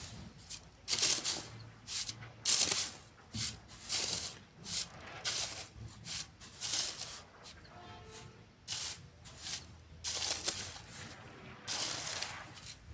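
Sand being shovelled and sifted, heard as a string of short, irregular rushing bursts of sand spilling through a screen, about one or two a second.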